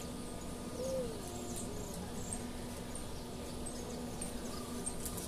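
Outdoor ambience with a steady low hum, a single short bird call that rises and then dips in pitch about a second in, and faint high chirps repeating a little under once a second.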